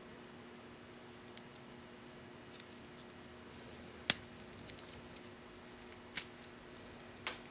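A few small sharp clicks and ticks of hand-handled fittings and thread-sealing tape, the sharpest about four seconds in, over a steady faint hum.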